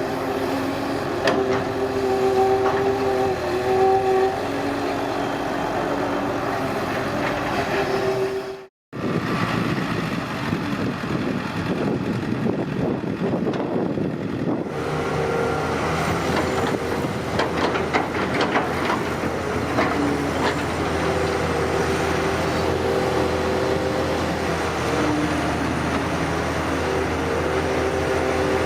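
Excavator diesel engine running steadily, with a few knocks from the machine's work. The sound breaks off for a split second about nine seconds in, then comes back rougher for a few seconds before the steady engine tone returns.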